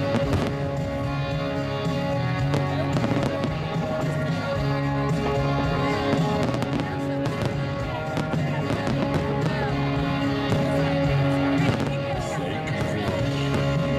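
Aerial firework shells bursting and crackling many times over a steady bed of music with held notes.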